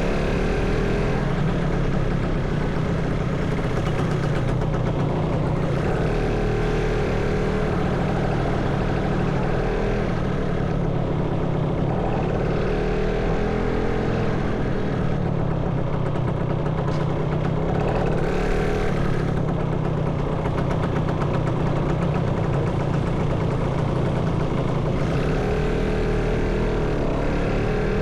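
Motorcycle engine running during a ride, a steady hum with its pitch rising and falling briefly every several seconds as the throttle changes.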